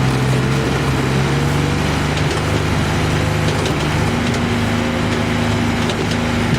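Firewood processor running steadily under power, its engine and hydraulics making a loud, even drone with scattered light clicks and knocks of wood. A second, higher hum joins about four seconds in.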